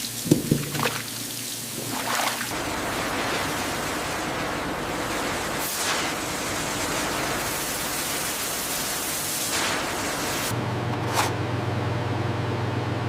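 Factory processing-line ambience: a steady rushing noise like running water, with a few sharp knocks in the first second. A low steady hum joins about ten seconds in.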